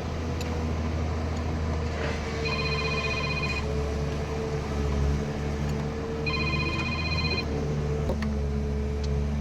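A mobile phone ringing: two short bursts of a pulsing, multi-toned electronic ringtone, about four seconds apart, over a steady low machine hum.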